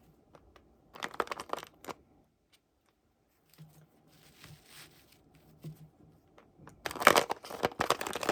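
Toy packaging being handled during an unboxing, crinkling and crackling in two bursts, with softer rustling between them.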